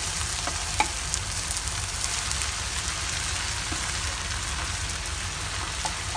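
Food sizzling steadily in a frying pan, with a knock about a second in, likely from a cooking utensil against the pan.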